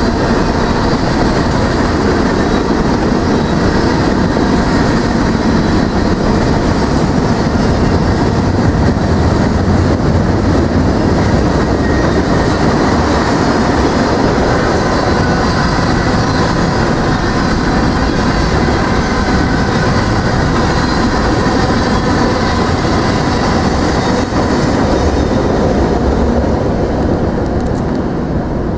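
A train passing close by at speed: steel wheels on the rails with a loud, steady rolling rumble and clickety-clack, beginning to fade near the end as the train clears.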